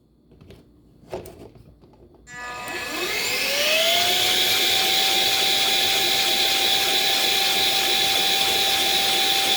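A 3D-printed PLA piston air engine driven by an air duster: a few faint clicks, then about two seconds in the duster starts with a loud rush of air and a whine that rises quickly for about a second and a half as the engine spins up, then holds a steady pitch.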